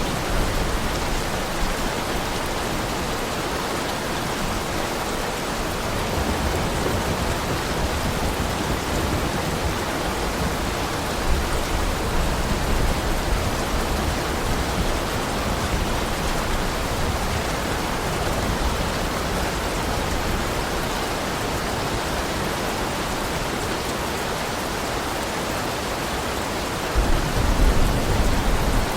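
Heavy rain falling steadily, with low rumbles that come and go and are strongest near the end.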